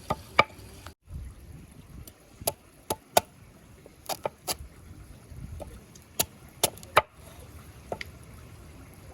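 Knife chopping on a cutting board: about a dozen sharp, irregular knocks.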